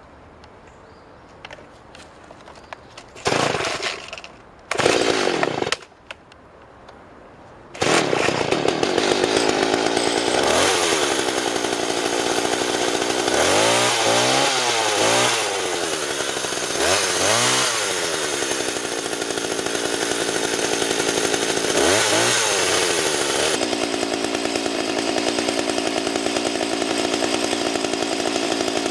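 McCulloch Mac 3516 two-stroke chainsaw being started: two short bursts of sound about three to six seconds in, then it fires and keeps running from about eight seconds in. It is revved up and down several times before settling into a steady run.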